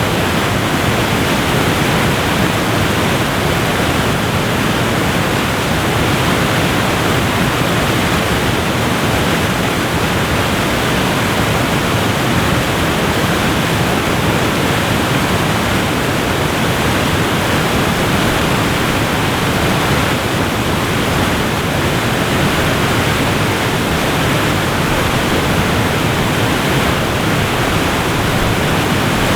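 Waterfall rushing, a dense, steady roar of falling water that does not change.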